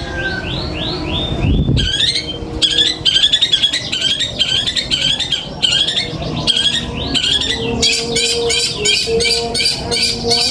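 Songbird calls on a bird-training (masteran) recording: a quick run of sweeping notes, then chirps repeated about twice a second, and from about eight seconds in a fast rattling trill.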